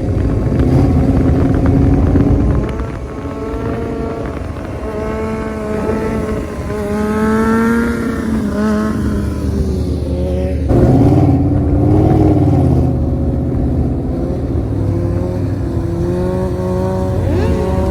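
Car and motorcycle engines running and revving on the street, their pitch rising and falling as they accelerate and ease off, with a sudden louder rev about eleven seconds in.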